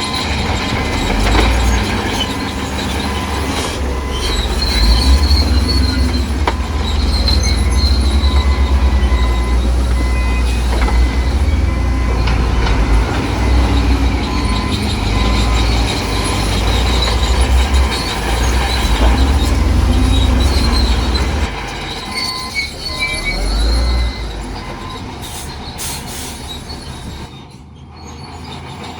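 Bulldozer's diesel engine running, with its steel crawler tracks squealing in repeated high-pitched stretches. The sound gets quieter over the last few seconds.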